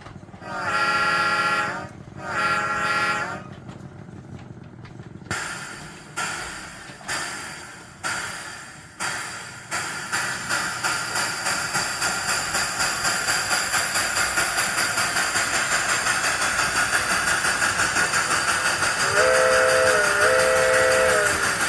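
Sound system of a G-scale model steam locomotive: two short whistle blasts, then steam chuffs that start slow, about one a second, and quicken to about three a second as the engine gets under way, with another whistle blast near the end.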